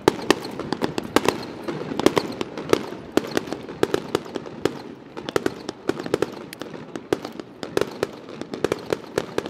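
Aerial firework shells launching and bursting in quick succession: a dense, irregular run of sharp bangs, several a second, each with an echoing boom.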